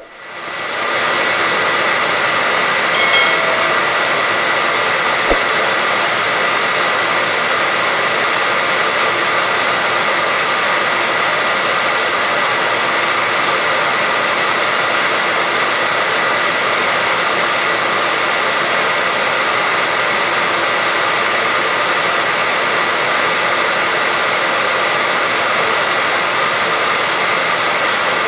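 Hair dryer switched on and coming up to speed over the first second, then blowing steadily: an even rush of air with a constant high motor whine. A brief tonal blip about three seconds in and a small click a couple of seconds later.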